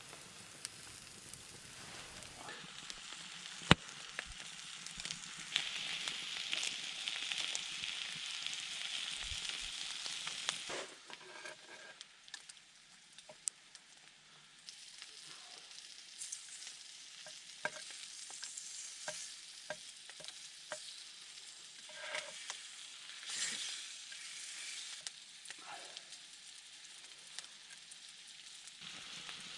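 Food sizzling on a hot stone over a campfire, with scattered sharp pops and crackles. The sizzle swells louder from about five to eleven seconds in, then settles to a quieter hiss. There is one loud pop about four seconds in.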